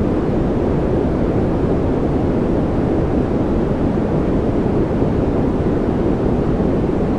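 Continuous, unchanging masking noise from a relaxation/focus noise track, deep and rumbling, with most of its energy low and only a faint hiss above. It is closer to brown noise than to bright white noise.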